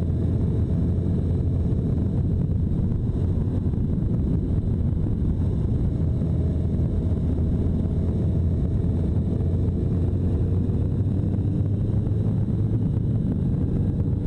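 1985 Honda Nighthawk 650's air-cooled inline-four engine running at a steady cruise, mixed with wind rush on the microphone.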